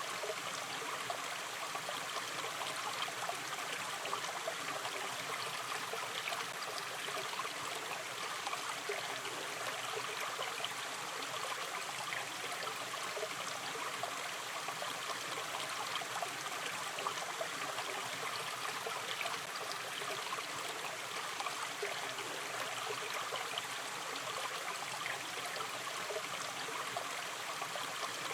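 A gentle natural river stream running steadily over stones, a continuous rushing with small trickles and gurgles throughout.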